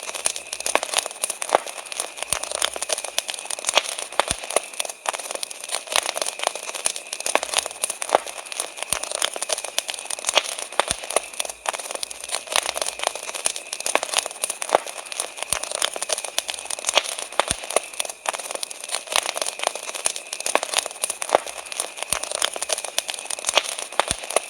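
Wood fire crackling steadily, with dense, irregular pops and snaps over a soft hiss.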